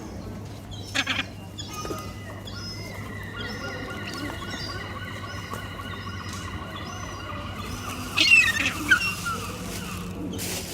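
Birds calling, with a long wavering call through the middle and louder calls about eight to nine seconds in.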